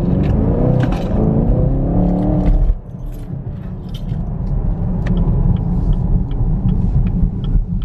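2020 Chevrolet Camaro 2SS's 6.2-litre V8 heard from inside the cabin, accelerating from low speed with its note rising. About two and a half seconds in it cuts back abruptly to a steady low rumble as the car cruises, with light ticks about twice a second.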